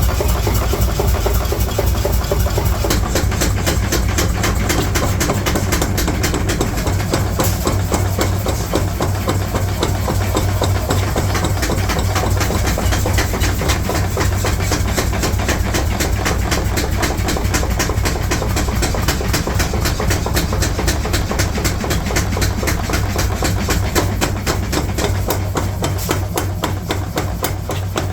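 Rapid, evenly repeated hammer blows on steel in a forge workshop, over a steady low machine hum.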